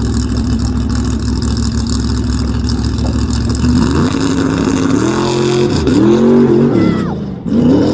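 Supercharged Chevrolet Vega drag car's engine running steadily on the starting line, then launching down the drag strip at full throttle, its pitch climbing and dropping several times as it pulls away.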